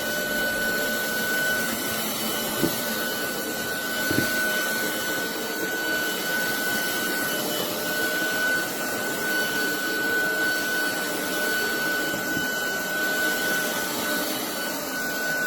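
Roborock Dyad Pro cordless wet-and-dry vacuum running steadily with a constant high whine while it picks up crushed blueberries. Two brief knocks come a few seconds in.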